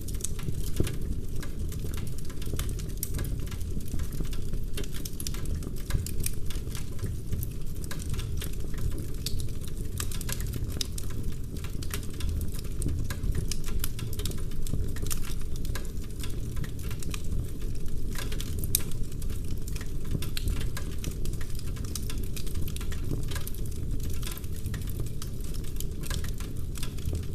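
Wood fire burning in a fireplace: a steady low rush of flames under dense, irregular crackling and sharp pops from the burning logs.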